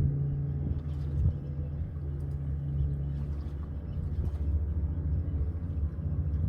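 Boat engine running steadily with a low rumble and a steady hum.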